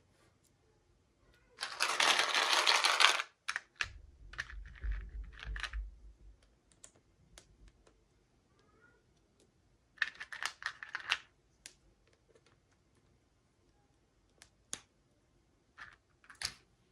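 Hands opening toy packaging: plastic crinkling and rustling in two short flurries, with soft thumps of handling and scattered small clicks and taps.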